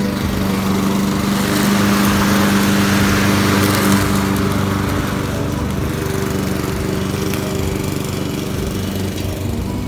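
Walk-behind gasoline lawn mower running steadily with a constant engine hum. It grows louder for a couple of seconds about two seconds in.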